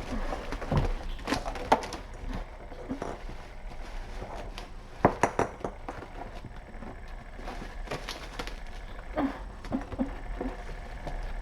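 Light knocks and thumps from kittens playing, over a steady low hum.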